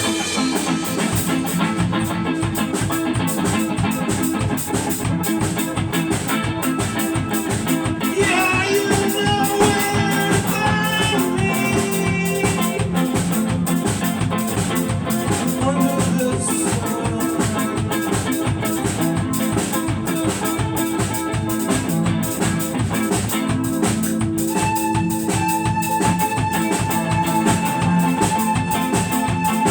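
A band playing an instrumental stretch of a song, with guitar over a steady drum beat.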